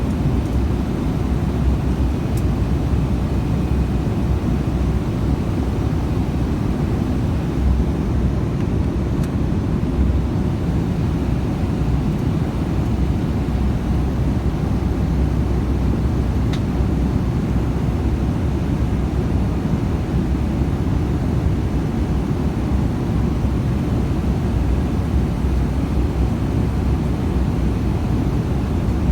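Steady low rumble of an airliner cabin in flight, the engines and rushing air heard from inside the cabin, with a few faint ticks.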